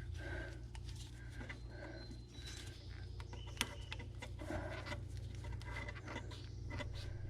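Faint scrapes and small clicks of hands twisting a rubber fuel hose on the fuel filter fitting of a lawn tractor to work it loose, with one sharper click about three and a half seconds in. A steady low hum runs underneath.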